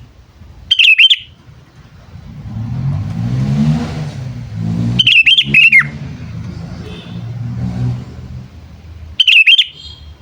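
Sooty-headed bulbul giving its bubbly call in three short, loud bursts about four seconds apart. A passing motor vehicle rises and fades underneath, loudest in the middle.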